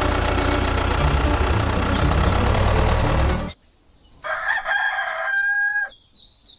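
A small engine runs steadily, then cuts off abruptly about three and a half seconds in. After a short silence, a rooster crows once for about two seconds.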